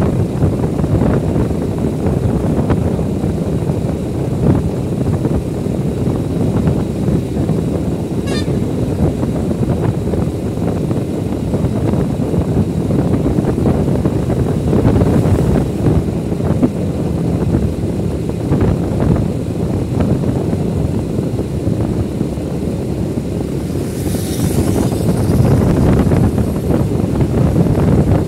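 Steady wind rush and road rumble from riding a motorbike, with wind buffeting the microphone.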